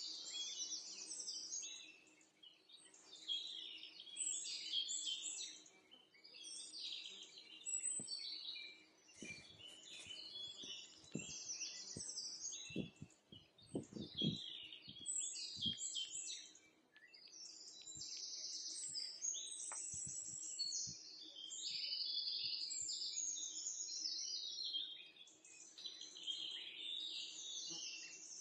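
Many small birds chirping and twittering together in a continuous high-pitched chatter, with a few soft knocks in the middle.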